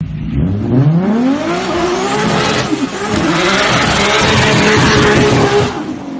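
Car engine revving hard under acceleration, its pitch climbing over the first two seconds, then holding high and loud before easing off near the end.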